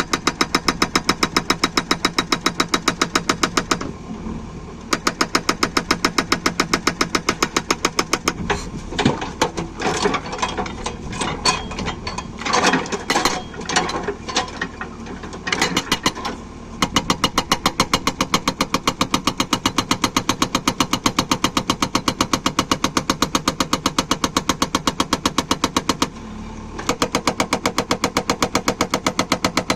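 Atlas Copco hydraulic breaker on a JCB 3DX backhoe loader hammering in rapid, even blows over the diesel engine's hum, breaking up a pipe. Partway through, the hammering gives way to a few seconds of irregular loud knocks and cracks, then resumes, with a brief pause near the end.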